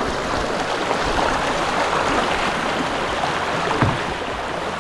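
Creek water running steadily over a rocky bed, with one light knock near the end.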